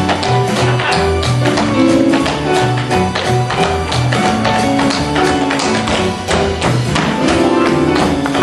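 Upbeat instrumental show-tune accompaniment with a walking bass line, under a fast, continuous clatter of tap-dance steps.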